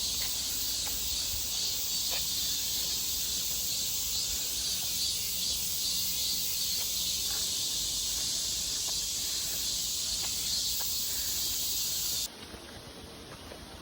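Dense chorus of summer insects, likely cicadas: a steady high shimmering buzz that cuts off abruptly near the end.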